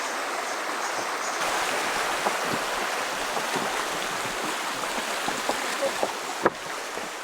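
Steady rush of a river or stream, with a few small ticks and a sharp click about six and a half seconds in.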